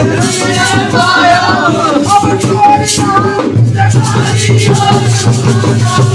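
Desi Holi folk-song music playing, with a quick, steady rhythm of jingling, shaker-like percussion over a melody line; a deep drum-like low part comes in about three and a half seconds in.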